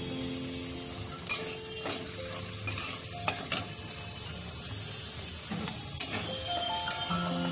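Chopped onion and potato sizzling in hot oil in a pan while a spatula stirs them, with several sharp knocks and scrapes of the spatula against the pan.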